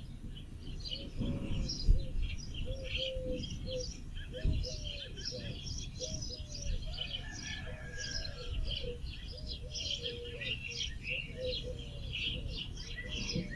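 Birdsong: many small birds chirping high up throughout, over a steady string of short, lower repeated call notes. Two soft knocks come about two and four and a half seconds in.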